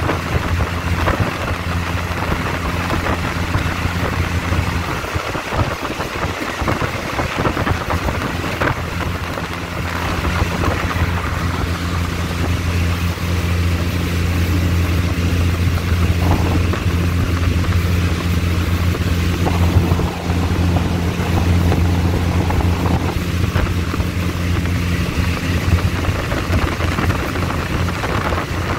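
Diesel-hauled passenger train running along the line, heard from an open carriage doorway: a steady low engine drone under the noise of the wheels and wind.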